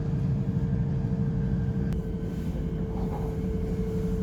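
Shinkansen bullet train running, heard from inside the train: a steady low rumble with a constant hum, and a faint click about two seconds in.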